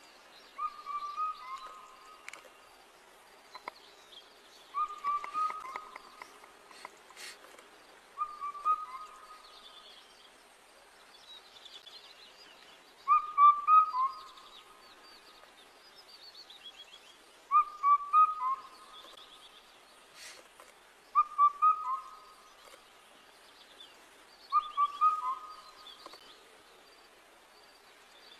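A bird repeating a short whistled phrase, about a second long and dropping in pitch at its end, seven times at intervals of about four seconds. Fainter, higher chirps run behind it.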